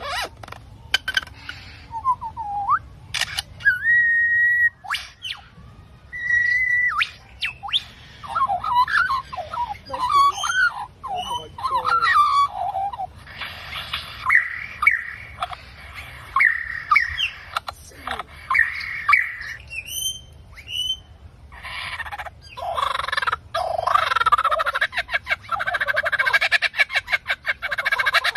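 A bird giving a long, varied run of calls: sharp clicks, short held whistles, warbling glides and squawky chatter, turning into a fast buzzy rattle near the end.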